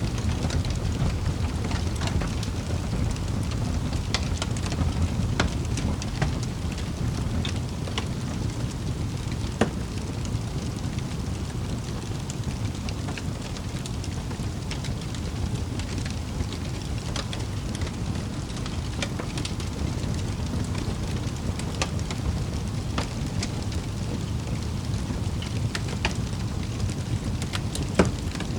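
Wood fire burning in a fireplace: a steady low rumble of flames with scattered crackles and pops, two sharper pops standing out, one about ten seconds in and one near the end.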